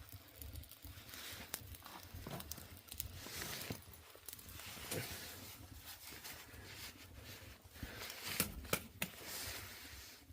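Wood fire in a traditional furnace crackling, with irregular sharp pops, a few louder ones near the end.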